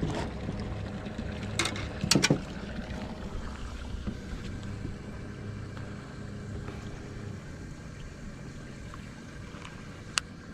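Low steady hum of a boat motor, fading after about seven seconds, with a few sharp clicks or knocks around two seconds in and one near the end.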